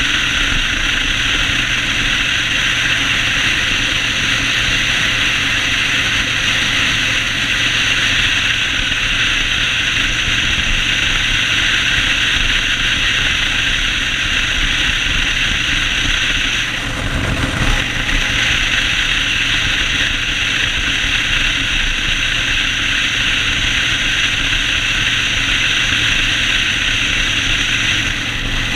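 Yamaha Road Star 1600 V-twin motorcycle being ridden at a steady pace. The engine runs under a constant rushing noise, with a brief dip and change a little past the middle.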